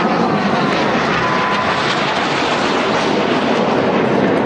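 Jet noise from the Red Arrows' BAE Hawk T1 jets flying past in formation: a loud, steady rush with a faint falling whine in the first second or so.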